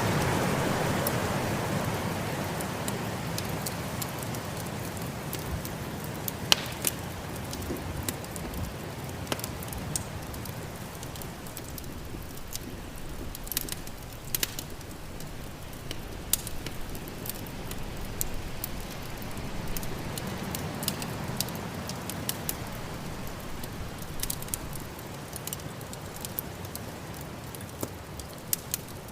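Wood fire crackling, with frequent sharp pops and snaps, over a steady rush of storm wind. The wind is loudest at the start and eases over the first few seconds.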